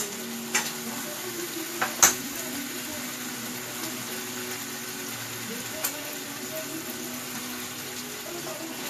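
Chicken frying in hot oil, a steady sizzle, with a few sharp clicks of a utensil against the pan, the loudest about two seconds in. The chicken is done or nearly done frying.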